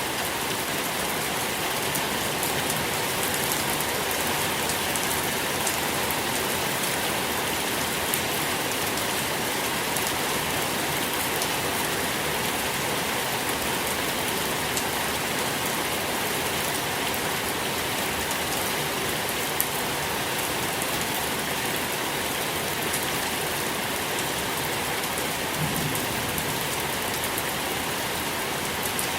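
Steady soft rain falling on a surface, an even hiss with scattered individual drops ticking.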